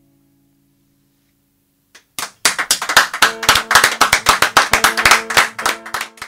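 The last acoustic guitar chord of a song dies away, and after a brief silence an audience breaks into applause, starting about two seconds in.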